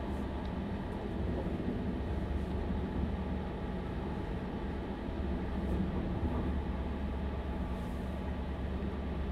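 Inside a Stadler Class 755 FLIRT bi-mode train running in diesel mode: a steady low hum from its diesel power pack, partly picked up through a contact microphone, under the train's running rumble.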